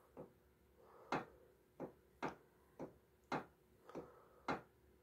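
Sharp metallic clicks about twice a second, somewhat uneven, from the camshaft of a VAZ-11183 cylinder head being shifted back and forth against its thrust faces during an axial play check with a dial indicator. The play reads about 0.12 mm.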